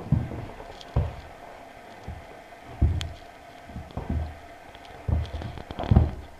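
A puppy's paws landing on a carpeted floor as it pounces after a laser dot: a series of dull thumps at irregular intervals, about one a second, the loudest near the end.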